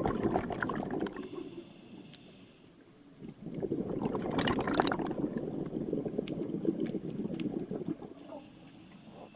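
A scuba diver breathing through a regulator underwater: long bubbling exhales, each followed by a shorter hissing inhale, twice over.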